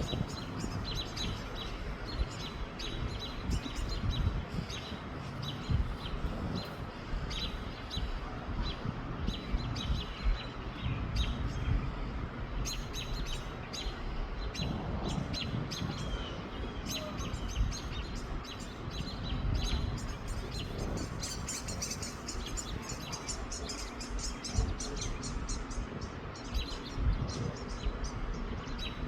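Small birds chirping rapidly and continuously, over wind buffeting the microphone with a low rumble.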